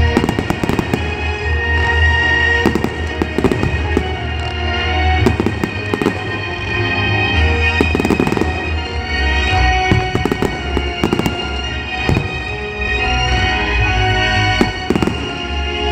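Aerial firework shells bursting, with repeated sharp bangs and crackling that come in clusters, over music playing steadily.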